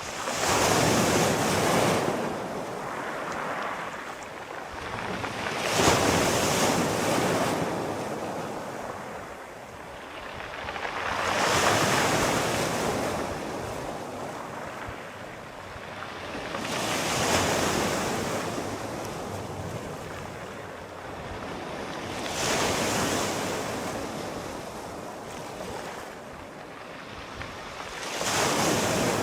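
Sea waves rolling in and breaking, six surges about every five to six seconds, each swelling to a rushing hiss and then fading.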